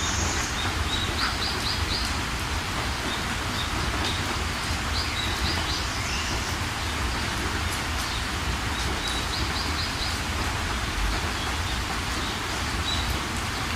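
Steady rain falling, with a small bird chirping in three quick runs of about four high notes each.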